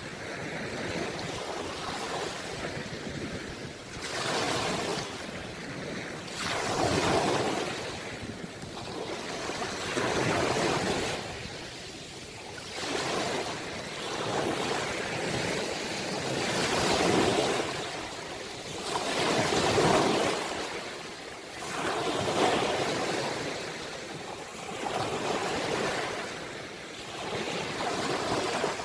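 Ocean waves breaking and washing up on a shore, surging and falling back every two to three seconds.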